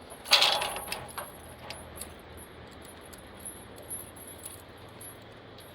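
Metal chain and padlock clinking as a door is chained and locked: one loud metallic rattle about half a second in, then a few light clicks.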